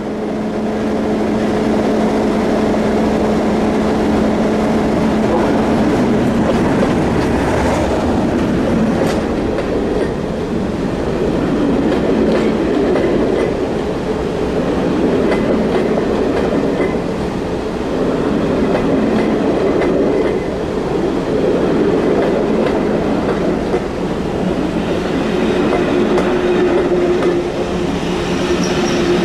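Class 37 diesel locomotive with its English Electric V12 engine running with a steady hum as it passes, then its coaches rolling by close with the rumble and clatter of wheels on the rails. A steady hum returns near the end.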